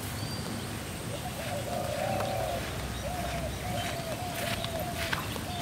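A bird calling repeatedly in the open countryside: a quick run of short, hooting, cooing notes, then more of the same spaced about two or three a second. Faint light footsteps sound on a grassy path.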